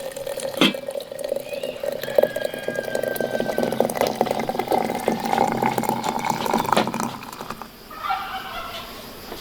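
Liquid being poured steadily into a container, its pitch slowly rising as the vessel fills, with a few light clinks; the pouring stops about seven seconds in.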